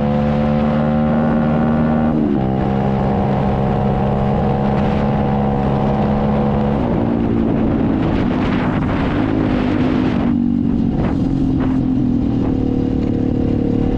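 SSR 125 dirt bike's single-cylinder four-stroke engine running steadily while being ridden, its note stepping down about two seconds in and again about seven seconds in, with a few short knocks near the end.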